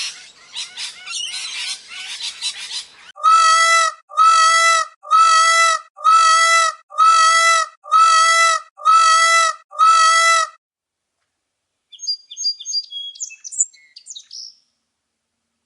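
Recorded bird calls in three parts. First about three seconds of rapid chattering. Then eight identical, drawn-out calls, about one a second. Near the end, a short burst of high chirps.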